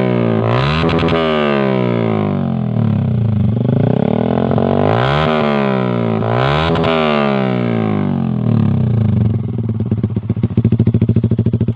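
Yamaha MX King single-cylinder four-stroke engine revved through a CLD Monster aftermarket silencer on an Akrapovic pipe: a loud exhaust note sweeping up and down, peaking about a second in and again around five and seven seconds in, then dropping to a lumpy, pulsing idle near the end.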